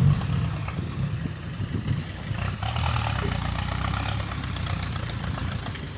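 Diesel dump-truck engine running steadily at low revs.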